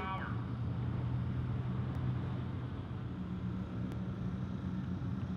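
Car engine sound at a drag strip: an engine note falls away right at the start, then a steady low engine rumble carries on, much quieter than the full-throttle run just before.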